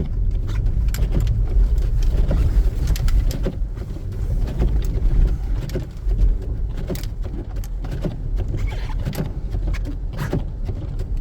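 Inside the cabin of a 2014 Jeep Grand Cherokee Summit driven off-road through snow: a steady low rumble with frequent knocks and rattles as it rolls over uneven ground.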